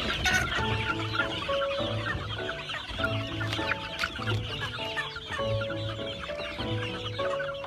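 Many chickens clucking together in a dense chorus, over background music with steady sustained notes and an even pulsing bass beat.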